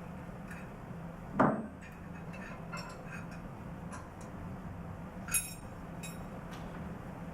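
Two wrenches and steel lock nuts on a control valve actuator's stem clinking as the nuts are loosened: a loud knock about a second and a half in, a sharp metallic clink about five seconds in, and light ticks between. A steady low hum runs underneath.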